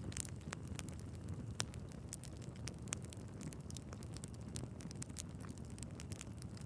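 Wood fire in a fireplace crackling, with irregular small snaps and a few sharper pops over a low, steady rumble of burning logs.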